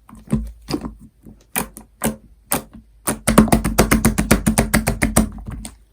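Purple clear slime mixed with shaving foam being squished and pressed by hand, making sticky clicking pops. The pops come about twice a second at first, then in a quick run of clicks from about halfway through.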